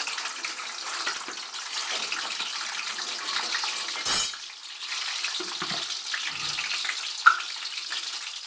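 Eggs frying in hot oil in a pan, a steady sizzle. There is a brief louder burst about four seconds in, and a single sharp knock near the end.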